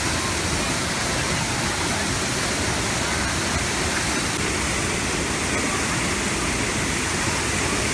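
Looking Glass Falls pouring: a large waterfall's steady, even rush of falling water.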